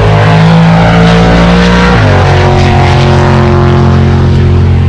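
Car engine held at steady revs, stepping down to a lower steady pitch about two seconds in.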